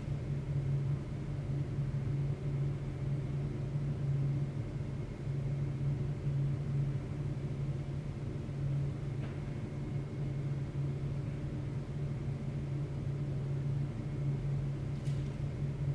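Steady low rumble of city traffic heard through the walls of a building, with a couple of faint clicks.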